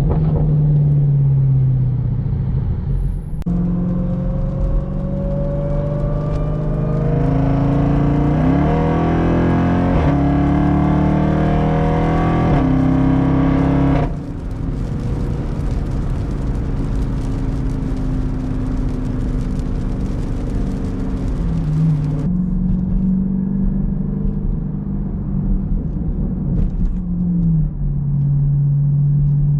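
Jeep Grand Cherokee Trackhawk's supercharged 6.2-litre V8 accelerating hard. The engine note climbs in steps through quick upshifts from about three seconds in, then drops off about fourteen seconds in and settles to a lower, steady running note.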